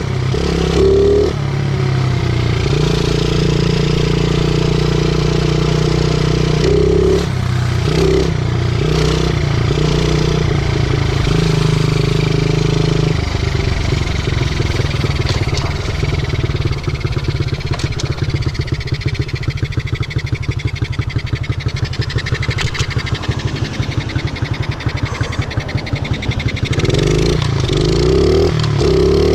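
50cc pit bike's small single-cylinder engine running under the rider, its pitch stepping up and down with the throttle. About halfway through it drops to a low, rapid putter for a long stretch, then picks up revs again near the end.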